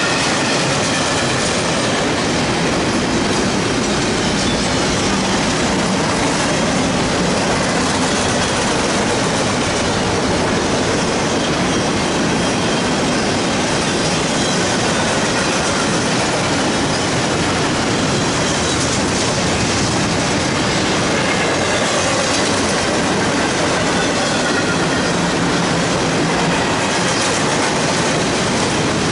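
Empty double-stack intermodal well cars of a freight train rolling past at speed: a steady loud rumble and clatter of steel wheels on rail, with a thin wavering wheel squeal now and then.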